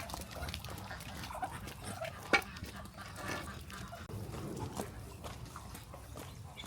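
Farm animals calling, amid many small clicks and knocks, with one sharp knock a little over two seconds in.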